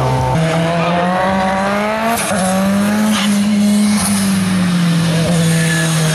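Hill-climb racing car's engine running hard at high revs. The engine note steps up twice early on, then slowly falls away.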